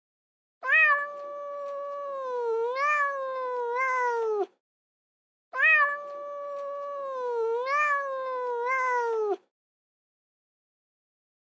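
Cat yowling: two long drawn-out calls of about four seconds each, alike in shape, the pitch wavering and sliding down at the end of each.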